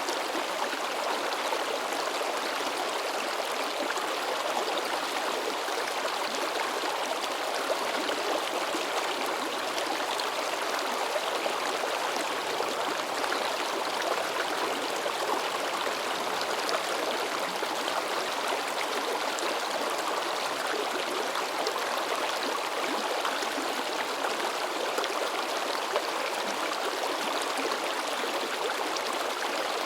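A mountain river babbling and splashing over rocks: a steady, even rush of flowing water.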